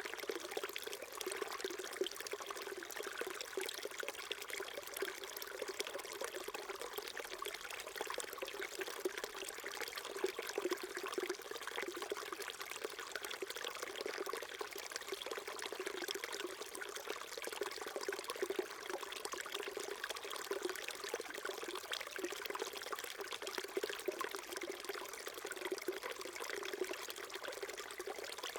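Small mountain stream flowing and burbling over rocks, a steady babble of water with many small splashes.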